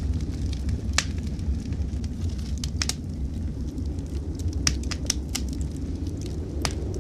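Wood fire crackling in a fireplace, with sharp scattered pops over a steady low rumble.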